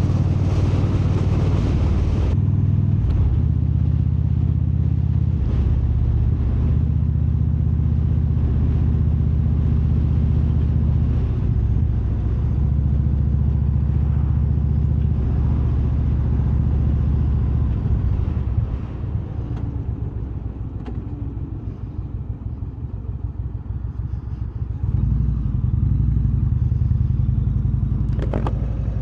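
Indian Super Chief Limited's Thunderstroke V-twin engine running steadily while riding, heard from the bike with a low, even drone. About eighteen seconds in it drops quieter for several seconds as the throttle comes off, then picks back up.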